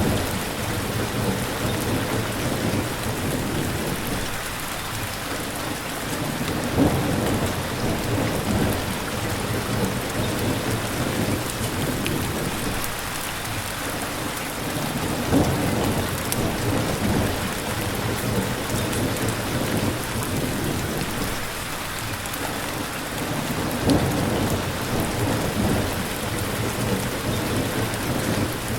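Steady rain falling, with slow low rumbling swells underneath and three brief louder peaks, about a quarter of the way in, in the middle and near the end.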